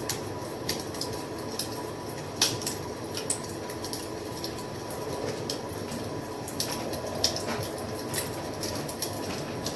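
Wood fire crackling: irregular sharp pops and snaps over a steady low rush of burning, the loudest pop about two and a half seconds in.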